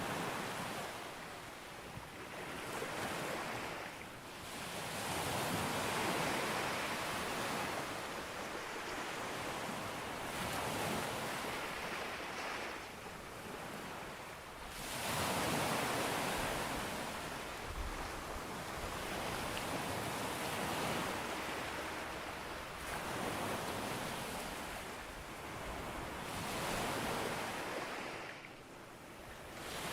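Ocean waves breaking and washing up a beach; the surf swells and falls away every few seconds.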